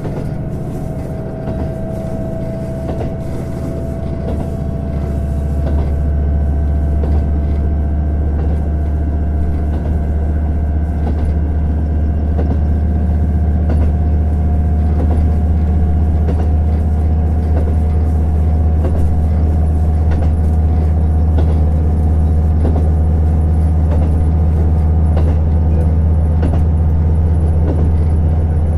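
JR Hokkaido KiHa 150 diesel railcar running under power, heard on board: a steady low diesel drone that grows louder about five seconds in, with a thin whine rising slowly in pitch as the railcar gathers speed, and faint light ticks.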